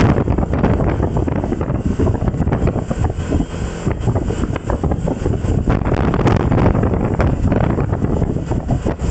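Wind buffeting the microphone: a loud, rough, gusting rumble with no steady tone in it.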